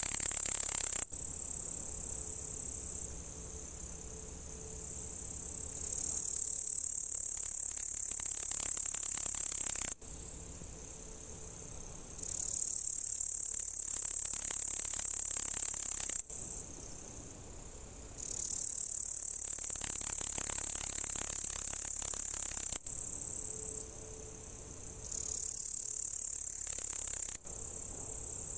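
Male upland green bush-cricket (Tettigonia cantans) stridulating: a continuous high-pitched buzzing trill that swells louder for several seconds, falls back quieter, and swells again, several times over.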